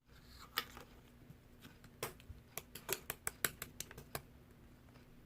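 Clear slime being handled, giving sharp little clicking pops: a couple of single pops, then a quick run of about nine between two and a half and four seconds in, then the pops stop.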